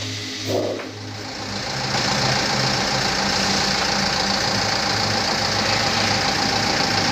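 Diesel bus engine running with a steady low throb; it gets louder about two seconds in and then holds steady.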